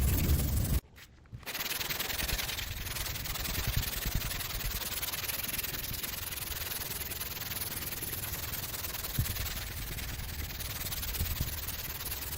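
A steady scraping noise, broken by a short gap about a second in.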